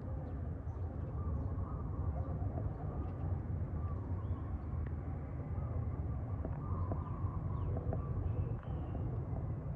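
Outdoor ambience: a steady low rumble with faint, scattered high chirps and a few small clicks.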